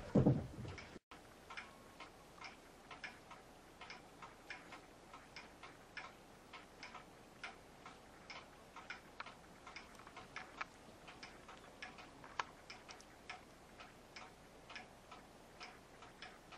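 Light, sharp clicks, a few a second at uneven spacing, with a louder scuffling burst about the first half-second.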